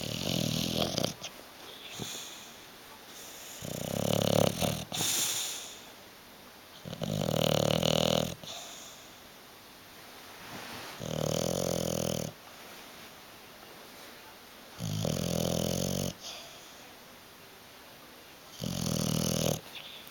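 English bulldog snoring in its sleep: six loud snores, one about every three to four seconds, with softer breathing between them.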